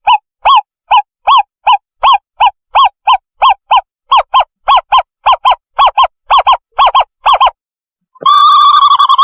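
Owlet call of the kind used as a bird-trapping decoy: a long run of short, clear hoots, about three a second and gradually quickening. After a short pause, a sustained quavering trill starts near the end.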